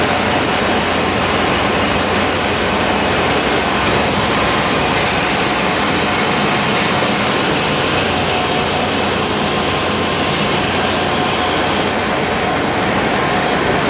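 Engine-room machinery of a bulk carrier running: a loud, steady mechanical din with a few steady tones in it.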